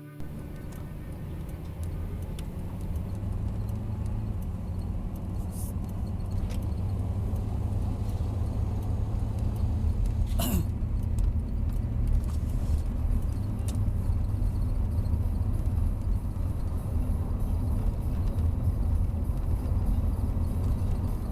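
Car driving along: a steady low road and engine rumble that builds over the first several seconds. A single sharp click comes about ten seconds in.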